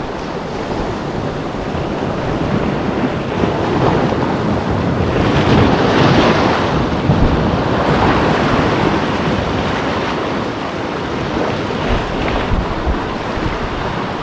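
Ocean waves washing in, with wind buffeting the microphone; the rush of water swells loudest about five to eight seconds in.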